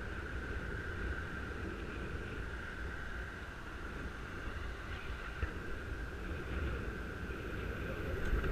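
Wind buffeting a helmet-mounted microphone on a moving bicycle: a steady low rumble, with a faint steady higher hum above it.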